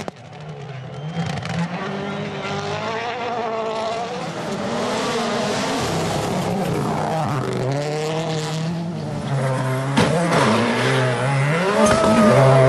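Rally car engine revving hard, its pitch climbing and dropping again and again through gear changes, with a sharp crack about ten seconds in.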